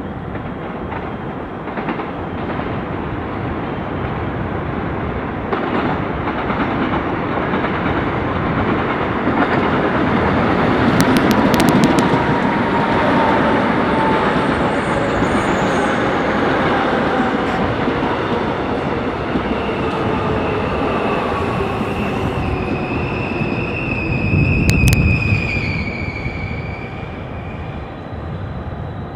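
Subway train running through a station: a steady rumble that builds to its loudest about halfway through, with a whine that falls slowly in pitch and high steel wheel squeal in the last third.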